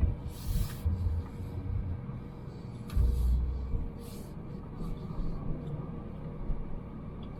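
Car running at low speed, heard from inside the cabin: a steady low engine and road rumble, with two louder low thumps, one at the start and one about three seconds in.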